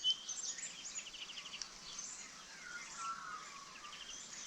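Several small birds chirping and calling in the background, including a quick run of repeated notes about a second in and a few lower whistled notes around three seconds in.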